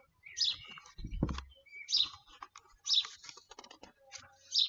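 Garden birds chirping: short high calls repeated several times. One low thump about a second in.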